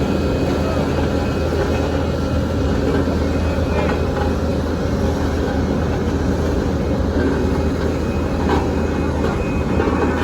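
Heavy diesel truck engine running steadily under load, a low, even drone throughout, with faint voices in the background.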